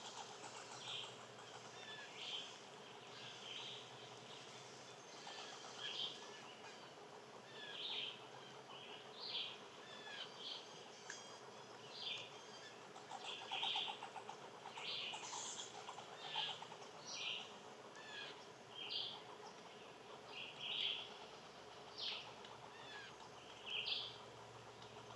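Small birds chirping: short, high calls repeated about once a second, some louder and closer than others, over a faint steady background hum.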